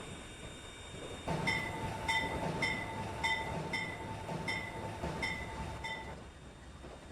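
A steam locomotive's bell ringing in a steady rhythm, about eight strokes at roughly one and a half a second, starting a little over a second in and stopping about a second before the end, over the rumble of the train.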